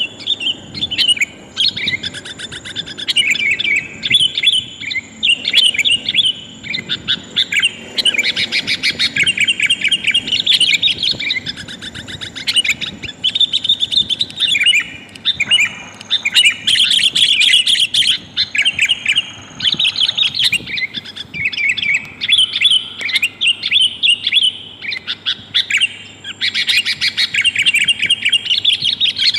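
Sooty-headed bulbul (kutilang) calling in rapid, chattering phrases with only short pauses, a lure call that is said to be a female calling males.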